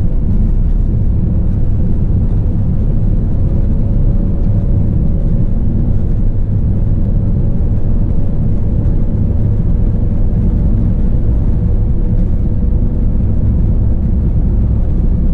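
Cab interior of a 2016 Mercedes-Benz Vito 111 CDI van cruising at speed: steady diesel engine and road rumble, with a faint hum that drifts slightly in pitch through the middle.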